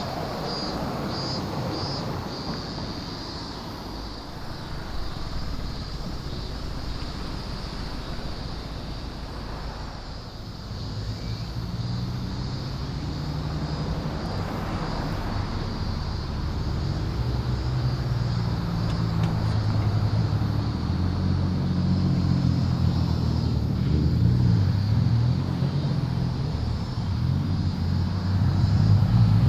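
Car engines running at low revs as cars drive slowly out one after another, the engine note shifting and getting louder over time, with a short rising rev near the end.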